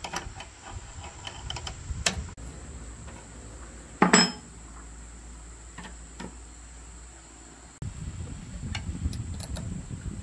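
Scattered metallic clinks and knocks of metal parts or tools being handled, with one loud clank about four seconds in.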